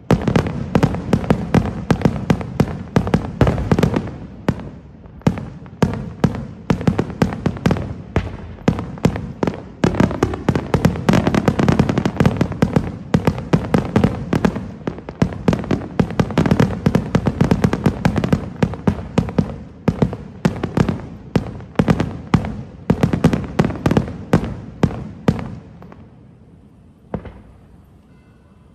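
Aerial firework shells in a Senatore Fireworks display, bursting in a rapid, dense barrage of bangs. The barrage dies away about 26 seconds in, and one last single bang follows shortly after.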